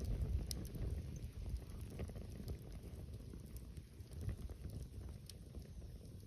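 Campfire crackling, with a few sharp pops, under a low wind rumble on the microphone.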